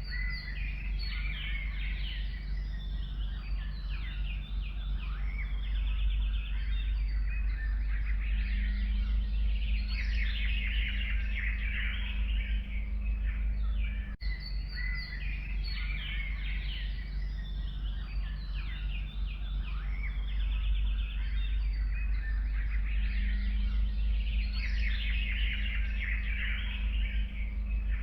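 Chorus of forest songbirds, many chirps and trills overlapping, over a steady low rumble. The same stretch of birdsong repeats about halfway through, after a brief dropout: a loop.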